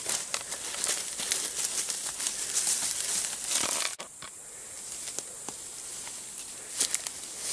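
Dry leaves, twigs and undergrowth rustling and crackling underfoot as someone walks through the brush. It stops abruptly about four seconds in, and lighter, sparser rustles and twig snaps follow.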